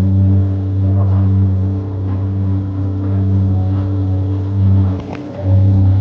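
Jet ski engine running steadily at speed, dipping briefly about five seconds in before picking back up.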